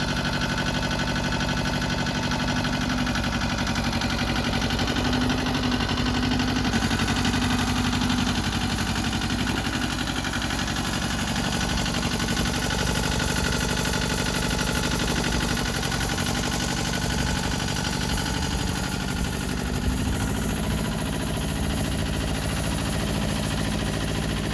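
Yanmar YM135 tractor's small diesel engine running steadily near idle, its engine speed shifting slightly a few times.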